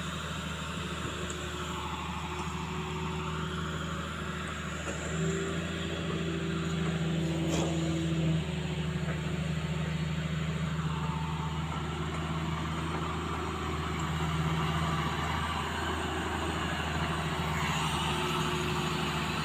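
Excavator diesel engine running steadily, its pitch and loudness rising under load for a few seconds about a third of the way in, then settling back.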